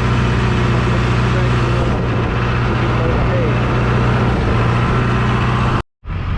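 John Deere tractor's engine running steadily at a low, even hum. The sound cuts out completely for a moment near the end, then resumes.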